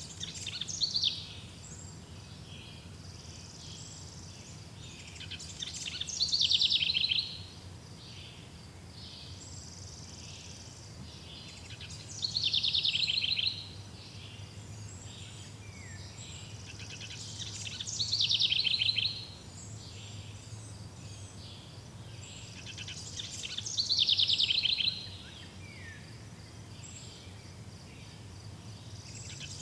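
A songbird repeating the same short, rapid trilling phrase about every six seconds, each phrase lasting about a second, over faint steady background noise.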